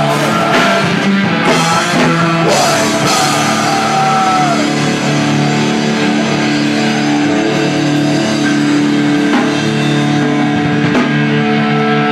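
Live rock band playing loud, with distorted electric guitar and a drum kit, cymbal crashes near the start and sustained guitar notes.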